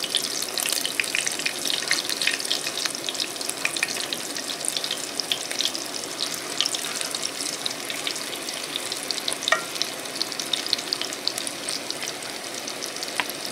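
Battered egg pieces shallow-frying in hot oil in a skillet, a steady sizzle with dense crackling and popping, busiest in the first half while the pieces are turned over with a slotted spatula.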